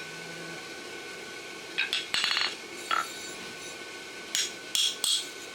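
Hand hammer striking a pritchel driven through the nail holes of a hot steel horseshoe on an anvil. The first sharp, ringing metal strikes come about two seconds in, a single ringing hit follows, and a quicker run of strikes comes near the end.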